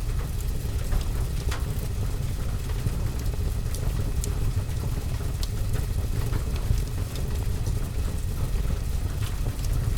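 Steady rain on a roof and window mixed with a wood fire in a fireplace: a constant low rumble with scattered sharp crackles and pops.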